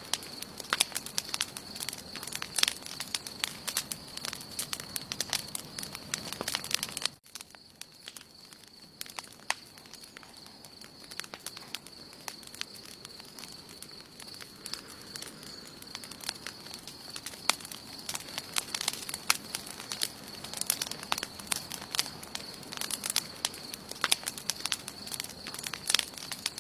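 Campfire crackling and popping, with sharp snaps over a steady high hiss. The crackle cuts out abruptly about seven seconds in, then returns quieter and sparser and builds up again.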